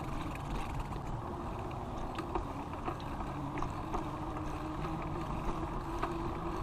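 Bicycle riding noise on a body- or bike-mounted camera: a steady rumble of tyres on pavement and wind on the microphone, with scattered small clicks and rattles from the bike.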